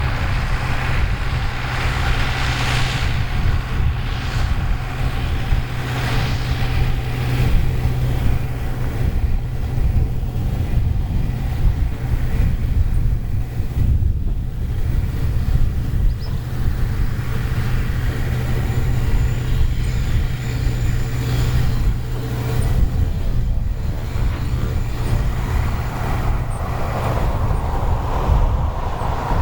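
Turboprop aircraft running with a steady low drone from its engines and propellers.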